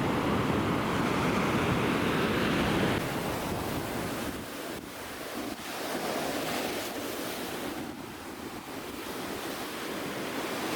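Sea waves breaking on the beach, a steady rush of surf with wind buffeting the microphone. The sound drops abruptly in level about three seconds in, then swells again as another wave comes in.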